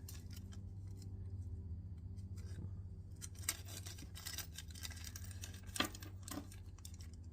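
Scattered light clicks and rustles of small hardware being handled from a plastic parts bag, with a few sharper clicks around the middle and later on, over a steady low hum.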